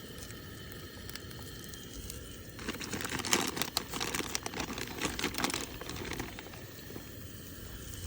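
A burst of crackly, rustling noise with many small clicks, starting about two and a half seconds in and lasting about three seconds, during camp-stove cooking.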